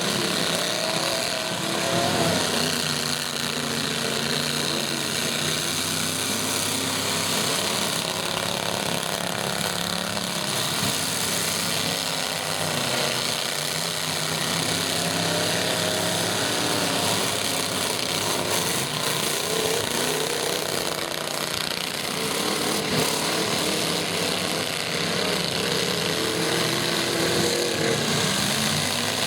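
Several demolition derby truck engines running at once, revving up and down over a dense mechanical din.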